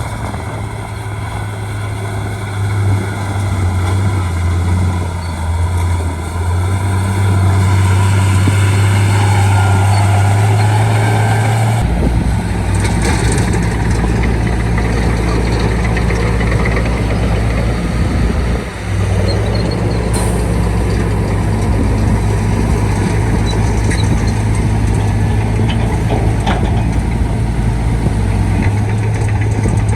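Shantui D95 bulldozer's diesel engine running steadily. About twelve seconds in the sound turns deeper, louder and rougher, with occasional knocks.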